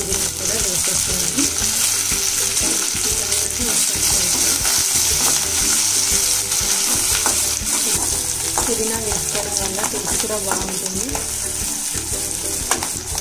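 Onions, green chillies and freshly added chopped greens sizzling in hot oil in a metal kadai. They are stirred with a metal slotted spoon that scrapes and clicks against the pan, more often in the second half.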